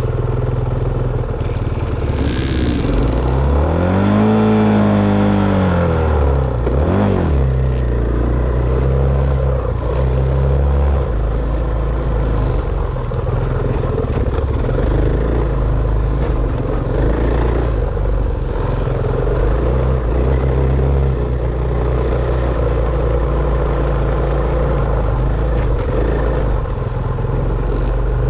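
Enduro dirt bike engine running, revving up and dropping back about three seconds in and again briefly near seven seconds, then holding a steadier note under rough rattling noise.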